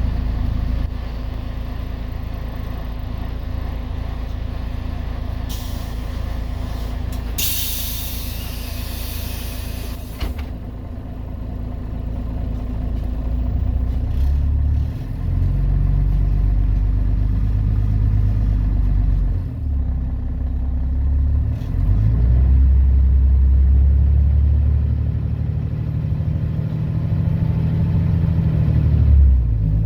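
Scania DSC 11.71 six-cylinder diesel of a Scania CN113CLL city bus idling, with two hisses of compressed air from the bus's air system about 5 and 7 seconds in. About a third of the way through the bus pulls away and accelerates, the engine note dipping briefly as the Voith D863.3 automatic gearbox changes up.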